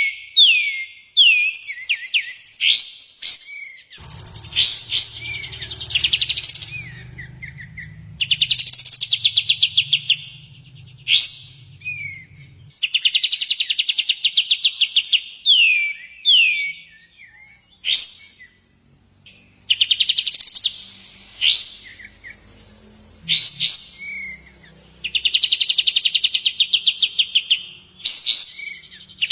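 A songbird singing loudly and without pause. Rapid buzzy trills, each a second or two long, alternate with short, sharp whistled notes that sweep steeply downward.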